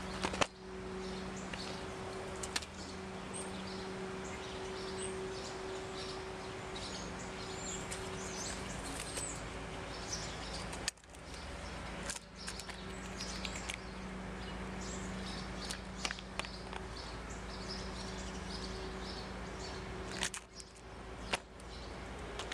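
Birds chirping in short high notes throughout, over a steady low hum. A few sharp clicks and knocks stand out, around eleven to twelve seconds in and again near the end.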